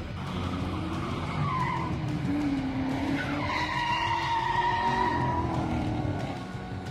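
LS2 V8 engine of a drift-spec Nissan 200SX revving hard while the car slides sideways, with its tyres squealing in a long wavering tone from about three seconds in.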